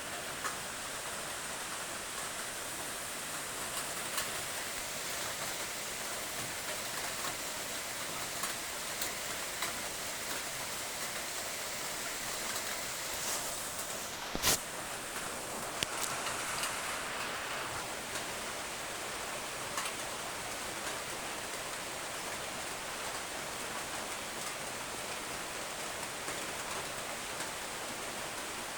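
Steady rain falling, an even hiss with scattered drop ticks and one sharper click about halfway through.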